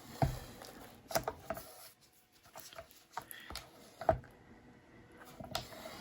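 Small canvas being tipped and handled: a few scattered soft knocks and clicks with light rustling between them.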